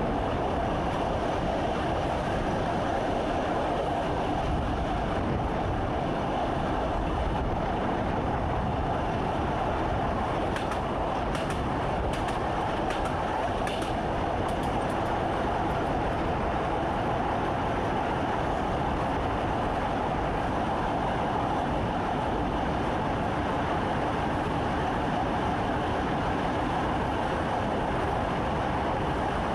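Train running steadily along the track, heard from inside the driver's cab: an even rumble of wheels and running gear, with a few faint clicks about ten to fifteen seconds in.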